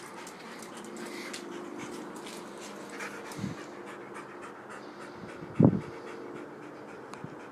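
Husky puppy panting steadily, with two dull thumps; the second, about five and a half seconds in, is much the louder.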